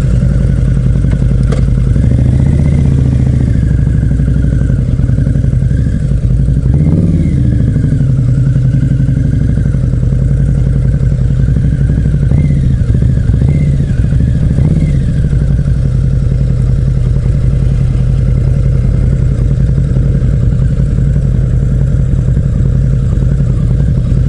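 Harley-Davidson V-Rod Night Rod Special's liquid-cooled V-twin running at low speed, a steady low rumble with a few short rises and falls in pitch as the throttle is opened and closed.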